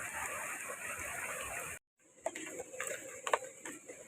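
Steady rushing water noise that cuts off abruptly a little under two seconds in, followed by scattered light taps and clicks.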